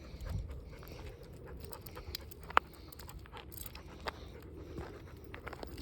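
A dog panting on a walk, with scattered small clicks and one sharper click about two and a half seconds in.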